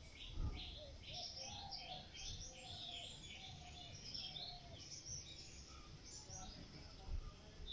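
Birds chirping and singing in quick repeated notes, with a lower warbling call mixed in, and a dull low thump about half a second in and again near the end.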